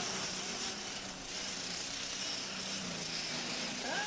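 Engine of a pulling tractor running hard during a pull: a steady, loud mechanical noise, its pitch climbing near the end.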